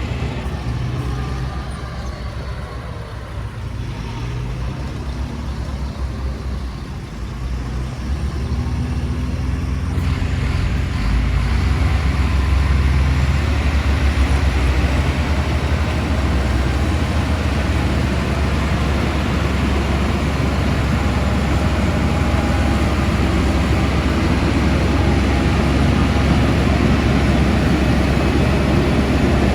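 Heavy diesel construction machinery running, its engine noise growing louder from about seven seconds in and then holding steady.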